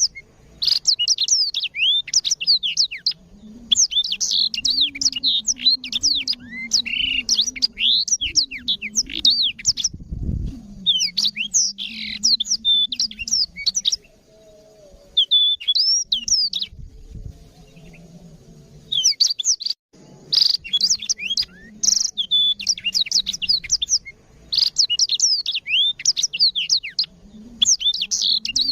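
Black-throated canary (blackthroat) in full song: long phrases of fast, high twittering notes that sweep up and down, with a lull of a few seconds about halfway through.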